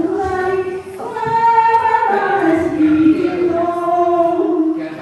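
Female singing of a slow devotional chant, long notes held and sliding gently in pitch, with a short break about a second in.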